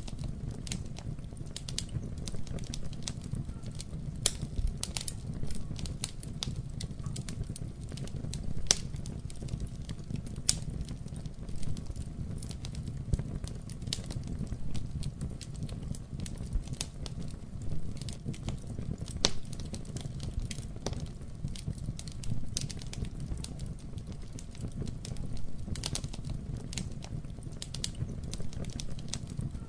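Wood fire burning in a fireplace, with a steady low rumble of the flames and frequent irregular sharp crackles and pops.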